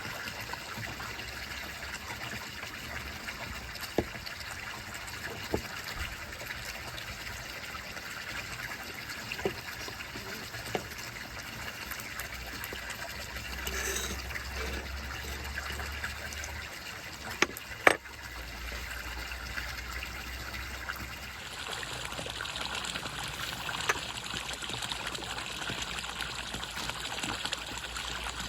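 Water trickling steadily, growing a little louder and brighter about two-thirds of the way through, with a few sharp clicks scattered over it.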